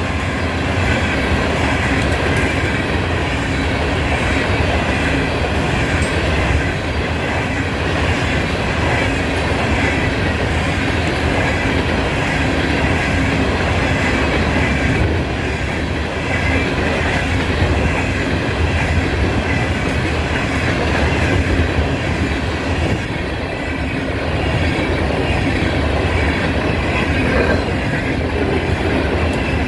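Freight train cars rolling past on steel rails: a loud, steady rumble with wheels clicking over the rail joints.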